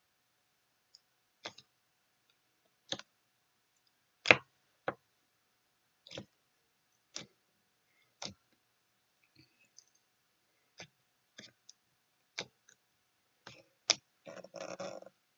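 A series of sharp, separate clicks or taps, irregularly spaced about one a second, the loudest about four seconds in, with a short scuffling noise just before the end.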